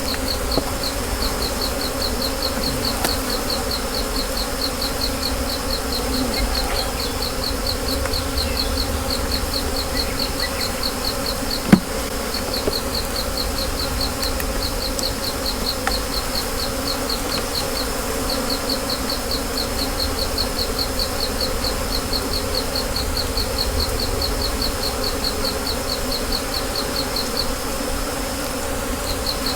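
Honeybees from opened nuc hives buzzing in a steady low hum. A fast, high chirping pulse of about five a second runs alongside it, and there is one sharp knock about twelve seconds in.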